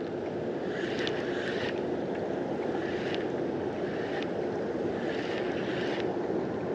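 Steady wind noise on the microphone with water lapping against a kayak's hull, and brief hissy splashes about a second in and again near the end.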